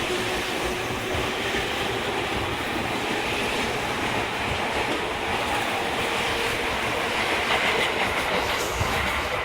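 Toei 10-300 series electric train running on the rails: a steady rumble of wheels and track, with a faint tone that slowly rises in pitch.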